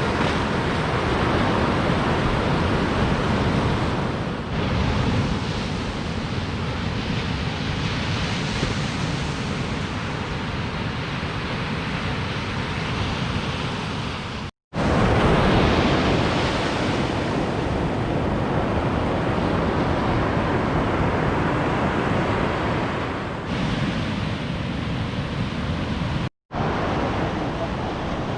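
Ocean surf breaking and washing up the beach in a steady roar of rolling waves, with wind on the microphone. The sound cuts out completely twice for a split second.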